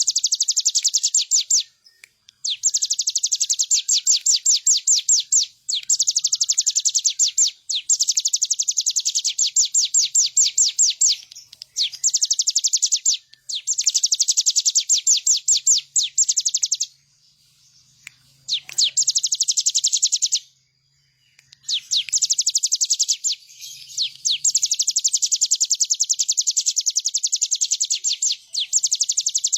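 A ciblek gunung, a prinia, singing rapid high trills of quickly repeated notes. The trills come in bursts of one to four seconds with short pauses between them.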